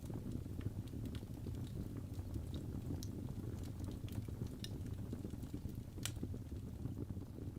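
Wood fire crackling in a fireplace: a steady low rumble of burning with irregular sharp pops and snaps, one louder pop about six seconds in.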